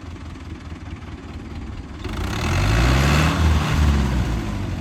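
Engine idling steadily, then a louder engine sound swells up about two seconds in and fades again near the end.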